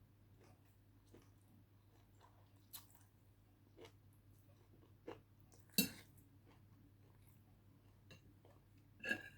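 Close-miked eating of rice noodles and roast pork: quiet chewing with a few short sharp crunches or clicks spread through, the loudest a little before six seconds in, over a faint low hum.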